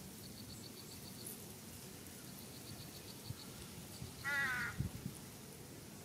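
A bird gives one harsh, wavering, crow-like call about four seconds in, lasting about half a second. Faint runs of quick high ticks come and go throughout, and a low thump follows just after the call.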